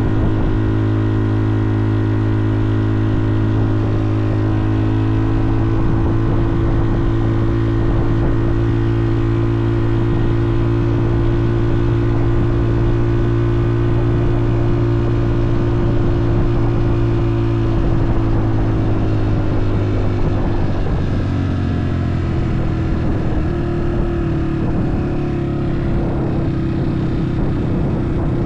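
Motorbike engine running at a steady speed, its pitch dropping slightly about twenty seconds in and then holding steady again.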